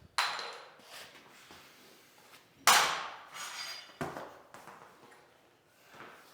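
A few separate knocks and clatters from flooring work, with quiet between. The loudest comes about two and a half seconds in and has a short ringing tail.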